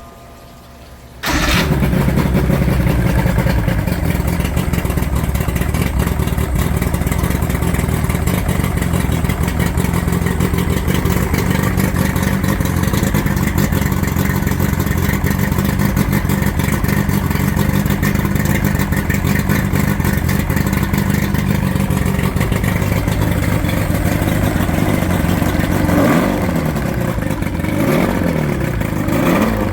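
115-horsepower outboard motor starting about a second in and running steadily, then revved up and down several times near the end.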